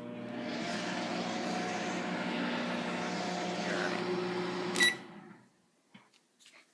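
2001 GE microwave oven running: a steady hum over the whirr of its fan for about five seconds, then it stops with a single beep and the fan winds down.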